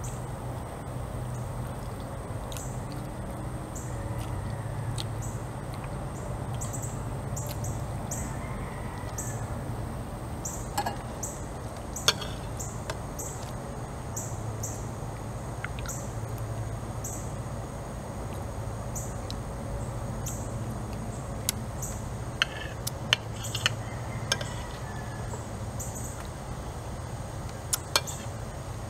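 Close-up chewing with soft mouth clicks while eating pumpkin pancake and chorizo, over a steady low hum. A metal fork and spoon click and scrape on a ceramic plate a few times, mostly in the second half.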